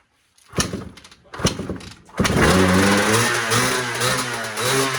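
Honda CR250 two-stroke single-cylinder dirt bike engine: two short bursts as it is kicked over, then it catches a little after two seconds in and runs loudly and unevenly, its pitch wavering up and down. This is a first start after two years of sitting, on choke, with a carburettor that needs cleaning.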